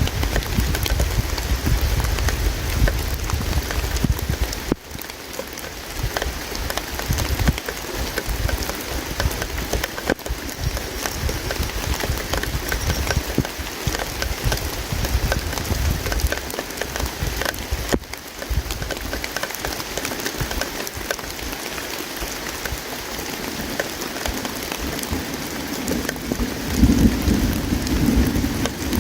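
Campfire crackling and popping over the steady rush of flowing river water. A heavy low rumble underneath cuts off about five seconds in, and a deeper wash swells up near the end.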